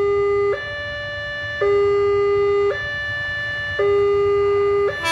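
WANTECH electronic level-crossing alarm sounding its two-tone warning, a lower and a higher steady tone alternating about once a second. It signals that a train is approaching the crossing.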